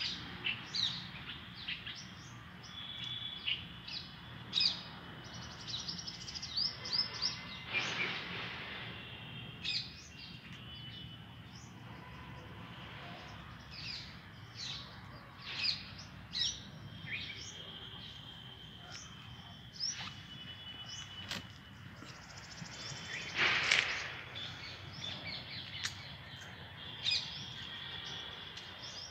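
Many birds chirping and calling, short high chirps throughout with a few held high trills, over a faint low rumble. Twice, about eight seconds in and again about twenty-three seconds in, a louder hissing burst lasts about a second.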